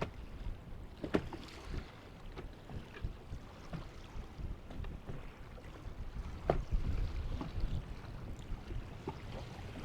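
Low rumble of wind buffeting the microphone, with scattered light knocks and clicks. The sharpest come about a second in and about six and a half seconds in.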